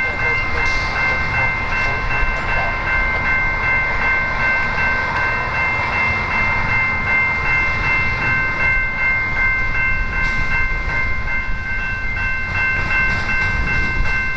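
Loaded coal train's cars rolling past with a continuous low rumble of wheels on rail. Several steady high-pitched tones ring over it throughout, unchanging in pitch.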